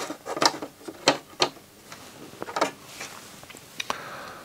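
Small plastic and metal parts of a CD changer's disc-carousel mechanism clicking and tapping as they are handled and fitted back together with the drive motor; about half a dozen separate sharp clicks.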